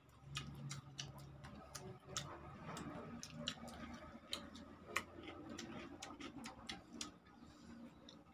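Faint, irregular mouth clicks and lip smacks of people chewing food, a few to several a second.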